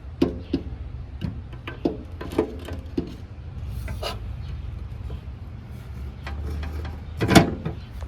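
Scattered metallic clicks, clinks and knocks of a new blade and its fittings being handled and mounted on a Black & Decker table saw, several with a short ring, the loudest clank near the end.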